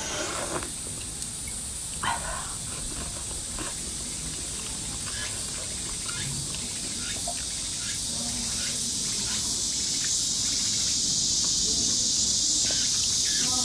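Small clicks and chewing sounds of someone eating, over a steady high hiss that grows a little louder about eight seconds in.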